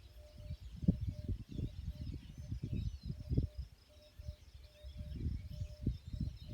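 Outdoor natural ambience: faint birds or insects chirping, with a short tone repeating about once a second, under louder irregular low thuds and rumbles.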